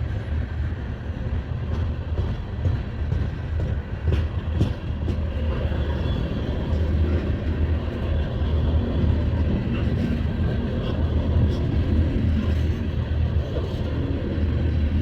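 Freight train rolling past at close range: a steady low rumble with a few sharp clicks from the wheels on the rails.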